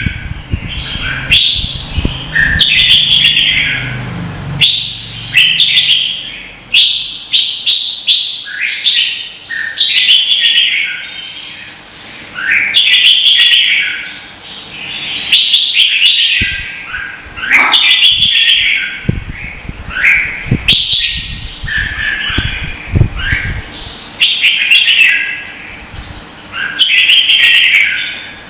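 Red-whiskered bulbuls singing against each other in a steady string of short, loud, warbled phrases, one every second or two. Now and then there are low knocks.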